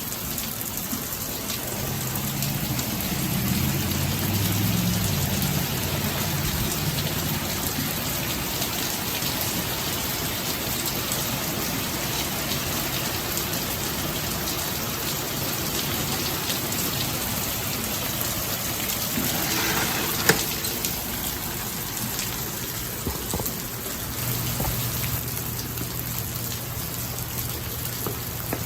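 Steady rain shower falling, an even hiss dense with the patter of drops on surfaces. One sharp tap stands out about two-thirds of the way through.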